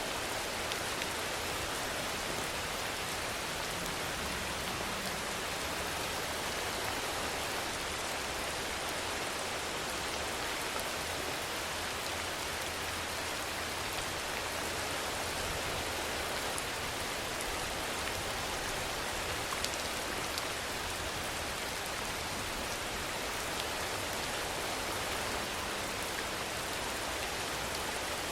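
Steady rainfall: an even hiss of rain with faint individual drop ticks.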